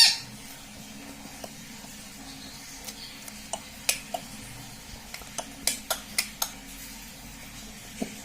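Sparse, light clicks and taps, about a dozen scattered over several seconds, over a low steady hum; a parrot's loud call cuts off right at the start.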